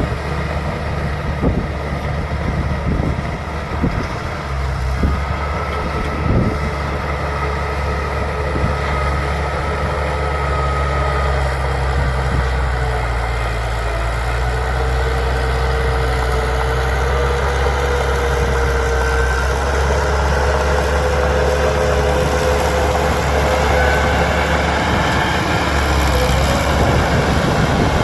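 Bulldozer's diesel engine running steadily with a low drone, with a few sharp knocks in the first several seconds and a faint whine that comes and goes later on.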